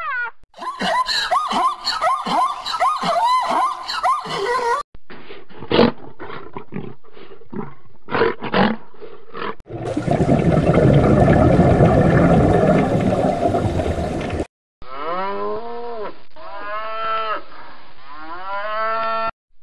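A run of different animal calls cut one after another: repeated arching, pitched calls, then short clipped calls, then a long, loud, rough roar-like call lasting several seconds, then more arching pitched calls.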